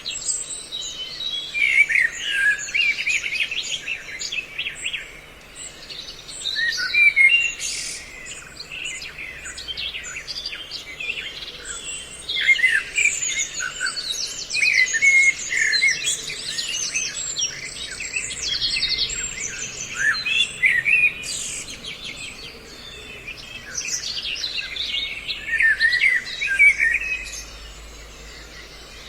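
A mixed recording of several songbird species calling over one another: a dense run of quick chirps, trills and short whistled notes, fading briefly near the end. It is a blended lure call of chao chảo, trao trảo and hoành hoạch birds used to draw birds in for trapping.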